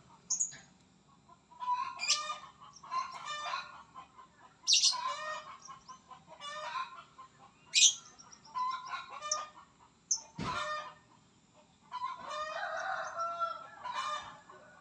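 A bird calling over and over in short chattering bursts of rapid pulses, with a few sharp shrill high notes among them. A single knock sounds about ten seconds in.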